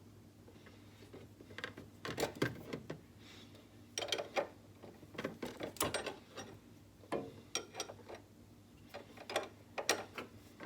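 Socket ratchet wrench clicking in short bursts of strokes as a bolt on the engine torque damper is run down, not yet snug.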